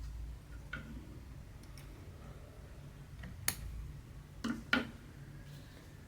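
Small sharp clicks and taps of hand cross-stitching, a needle and fingers working a stitching canvas, over a faint low hum. One click comes about three and a half seconds in and two close together near five seconds.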